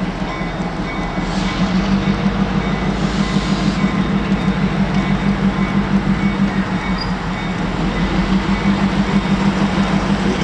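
Diesel locomotive running past with a steady low engine drone that pulses regularly, growing louder about a second and a half in.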